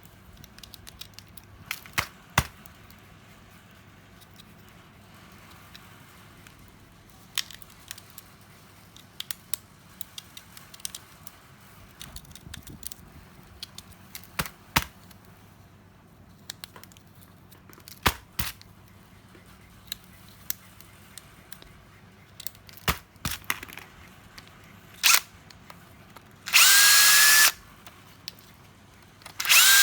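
Scattered clicks and knocks of tools and small parts being handled. Near the end a cordless power tool motor runs twice in short bursts of about a second, its whine rising slightly as it spins up.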